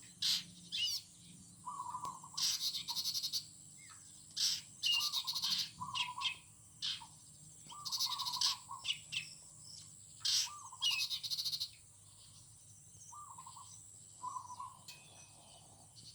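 Morning birdsong in a garden: several birds calling, with a short, low warbling call repeated every second or two and higher chirps and fast trills between them. A thin, steady high-pitched hiss runs underneath.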